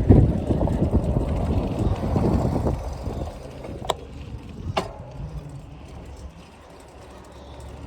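Bicycle ride with wind rumbling on the microphone, loudest for the first three seconds and then easing, and two sharp clicks about a second apart near the middle.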